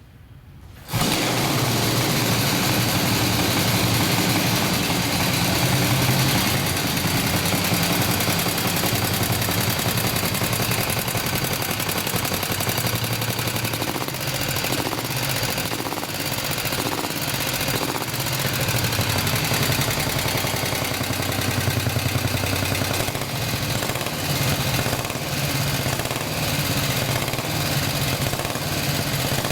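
A 1930 Terrot HOS's 350cc single-cylinder side-valve four-stroke engine starts suddenly about a second in and keeps running with a rapid, even beat, its level swelling slightly now and then.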